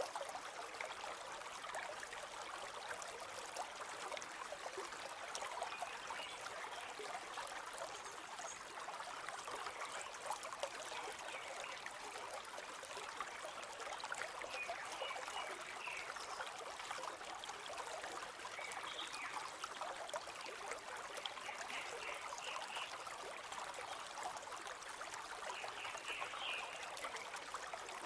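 River water flowing and trickling steadily, with a few short high chirps now and then.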